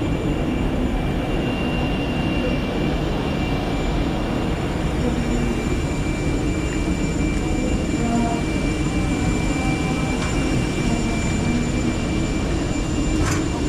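Steady engine and airflow noise inside an airliner's cabin just after landing, an even roar with a few thin whining tones over it. A couple of faint clicks come near the end.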